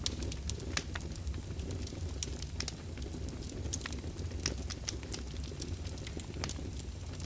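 Wood fire burning in a fireplace, crackling: many sharp, irregular pops over a steady low rumble of flame.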